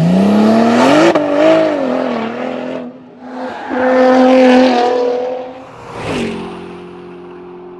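An engine revving in two goes: the pitch climbs quickly and holds with some wavering, drops away about three seconds in, and rises again around four seconds. A sharp whoosh comes about six seconds in, followed by a steady hum.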